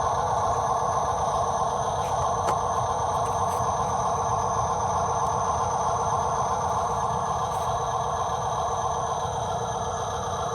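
Small electric motors and gearing of radio-controlled construction toys running steadily, with one sharp click about two and a half seconds in.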